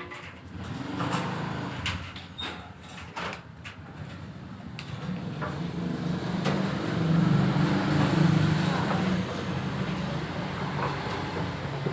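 A low mechanical hum that builds and is loudest about two-thirds of the way through, after a few sharp clicks and knocks near the start.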